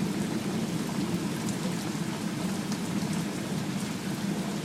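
Steady rain falling during a thunderstorm, an even hiss of rain with a few faint drop ticks.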